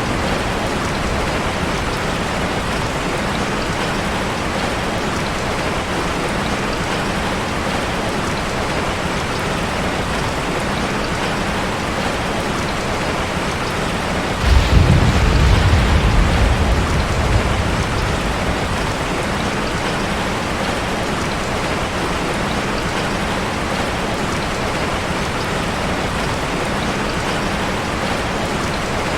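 Steady rushing of a waterfall layered with a crackling fireplace, a dense even hiss of water throughout. A little past halfway a low rumble swells up for about three seconds and fades back.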